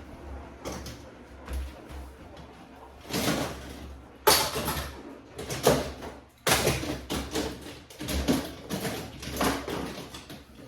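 A run of sudden knocks and thumps, about five or six, with rustling and scraping between them, as things are moved and put away.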